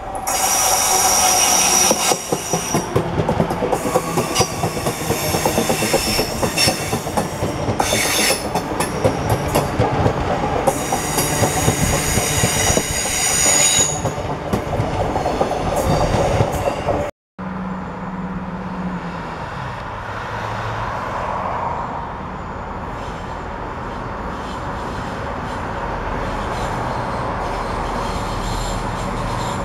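A London Midland passenger multiple unit passing close by at speed: loud wheel-on-rail noise with a run of rail-joint clicks and high wheel squeal. About 17 seconds in it cuts off abruptly, and a quieter CrossCountry diesel multiple unit is heard running past, with a low hum that drops in pitch.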